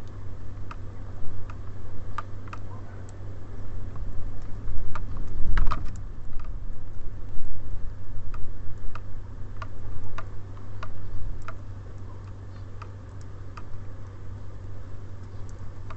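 Irregular small taps and clicks of tits and sparrows pecking at seed on a bird feeder, with a denser run of taps about five to six seconds in, over a steady low hum.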